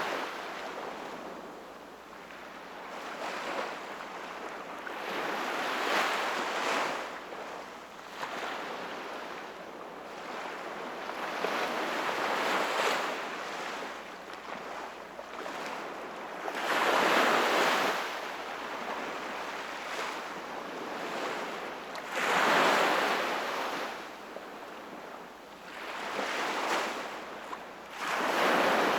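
Sea waves breaking and washing onto the shore, a swell every five to six seconds that rises and falls away, with a low steady wash of surf between them.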